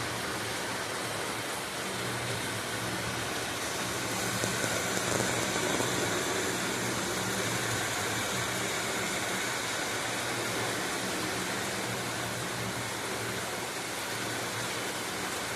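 Steady rain falling, an even hiss with no distinct drops standing out, over a low steady hum.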